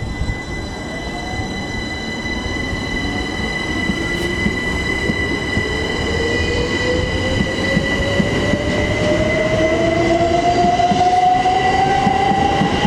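A pair of Class 387 Electrostar electric multiple units pulling away, their traction motors whining in a pitch that rises steadily as the train gathers speed. The sound grows louder as the train comes past, over steady high-pitched tones and the rumble of the wheels on the track.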